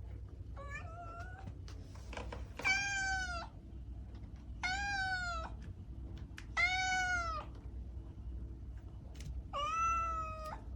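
Domestic cat meowing: a softer call about half a second in, then four loud meows about two seconds apart, each under a second long and dipping slightly in pitch, over a low steady hum.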